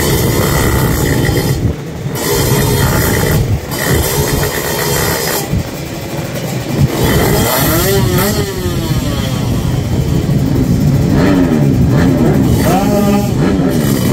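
Kawasaki Ninja drag-race motorcycle engine revving hard, its pitch rising and falling several times, with quick repeated rises near the end.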